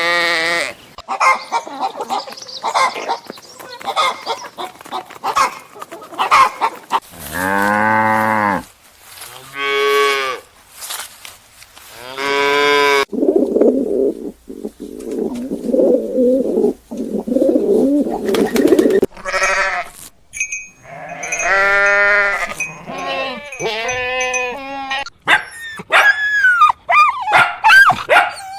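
A run of farm animal calls one after another: long low cattle moos and bleating, a rough drawn-out noisy call in the middle, and high gliding cries near the end.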